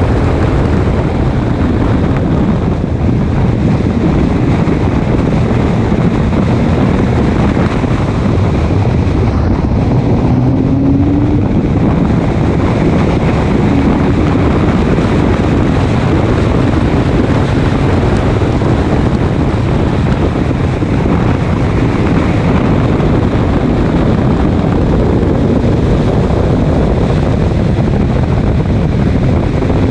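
Race car engine running at speed on track, its pitch rising and falling faintly, under heavy wind noise on the microphone.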